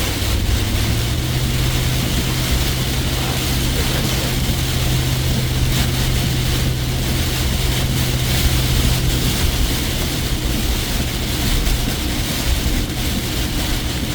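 Heavy rain pounding on a truck's roof and windshield, heard from inside the cab while driving, over a steady low engine and road drone that steps up slightly about a second in.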